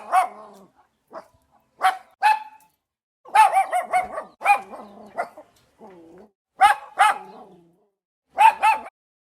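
A dog barking: a dozen or so short, sharp barks, some single and some in quick runs of two or three, with short pauses between.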